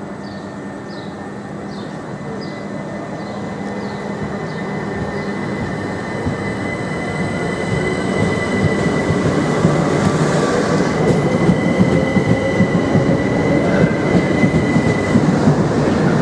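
Class 377 Electrostar electric multiple unit running slowly into the platform, growing steadily louder as its carriages pass close by. A steady high whine is heard over the wheel rumble and fades near the end, and the wheels clatter unevenly in the second half.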